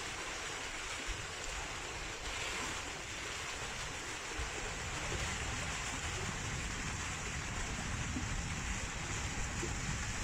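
Steady rush of flowing water, an even noise that holds without a break.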